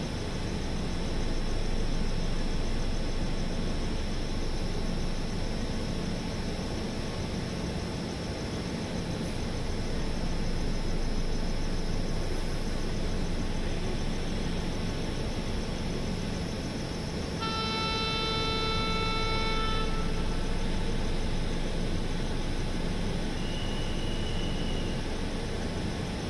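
Express train running, a steady rumble and rattle, with a horn sounding once for about two and a half seconds about two-thirds of the way in.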